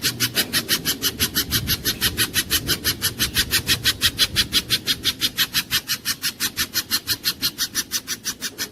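Spiderhunter (pijantung gunung) calling a fast, unbroken series of sharp, high chip notes, about eight a second, fading slightly near the end.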